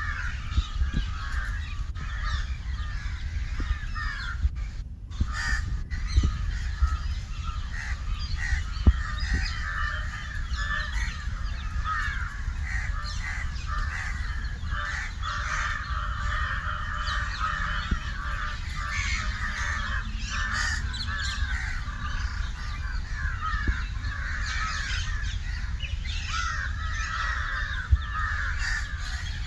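Many birds calling over one another in a dense, continuous chatter, with crows cawing among them.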